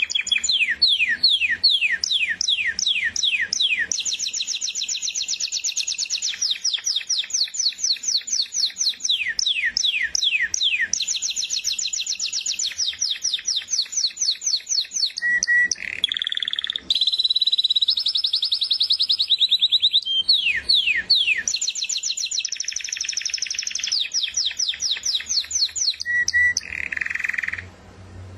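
A finch singing a long, loud song of fast trills: runs of rapidly repeated falling whistled notes, several a second, shifting partway through to a higher, steadier trill, with the song breaking off near the end.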